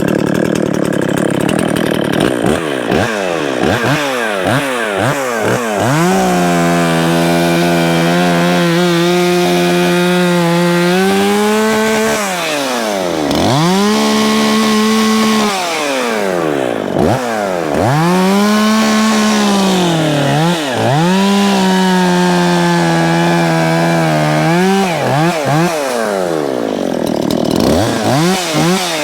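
Dolmar 510 two-stroke chainsaw blipped up and down in quick revs, then held at high revs for several seconds at a time while cutting through a downed tree trunk. It drops back to idle between cuts about three times.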